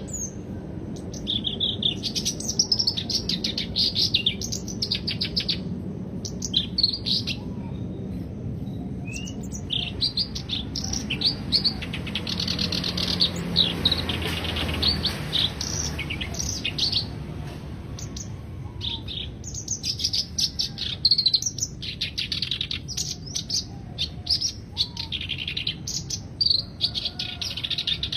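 Black-browed reed warbler singing: bursts of rapid, high-pitched chattering notes, each lasting a second or a few seconds, separated by short pauses.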